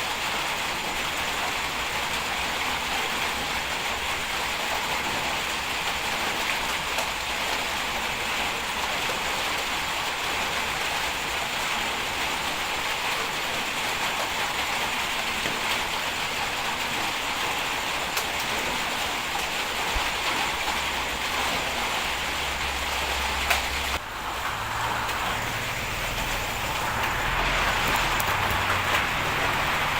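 Steady hiss of heavy rain, with a faint low rumble underneath. The sound changes abruptly about 24 seconds in, and the rumble grows stronger after that.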